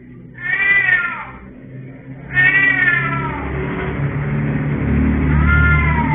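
A domestic cat meowing three times, about two seconds apart, each call falling in pitch. A low rumble builds underneath in the second half.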